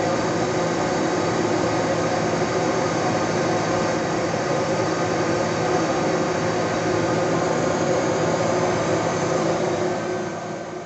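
Detroit Diesel 12V-71 two-stroke V12 diesel engine, turbocharged, running steadily. The sound fades out near the end.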